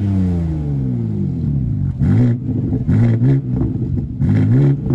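A car engine being revved while stationary: the revs fall away from a rev, then three short throttle blips follow, each rising and dropping quickly.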